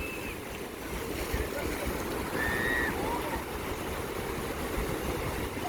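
Sea surf washing steadily with wind on the microphone, and a few faint, distant voices calling out, the clearest about halfway through.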